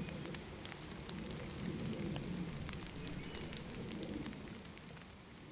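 Rain falling on a river: scattered drop ticks over a steady low rush of water, slowly fading out towards the end.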